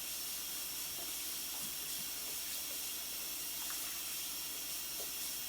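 Sink tap running in a steady stream of water, with a few faint clicks.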